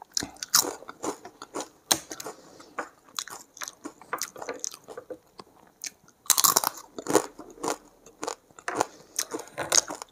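Close-miked chewing with many irregular crisp crunches, a person eating rice with papad by hand. The loudest burst of crunching comes about six seconds in.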